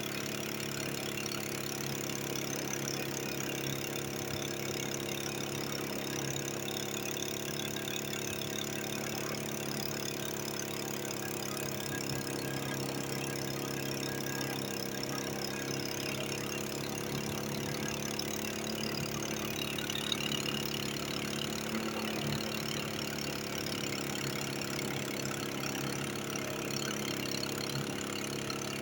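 An engine running steadily at one constant speed, with an even hum that does not change in pitch or level.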